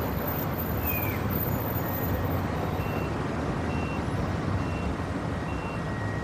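City traffic rumble, with a vehicle's reversing alarm beeping about once a second from about halfway through.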